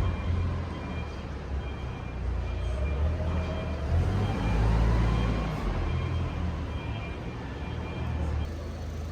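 Busy exhibition-hall ambience: a crowd's distant chatter over a deep, steady rumble.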